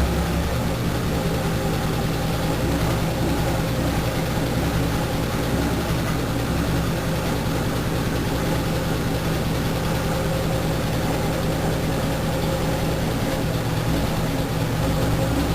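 Willys Rural's Chevrolet 4.1-litre straight-six engine idling steadily, with a constant low rumble and no revving.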